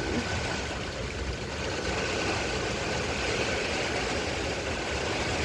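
Heavy thunderstorm rain and strong wind, a steady rushing hiss with an uneven low rumble of wind on the microphone.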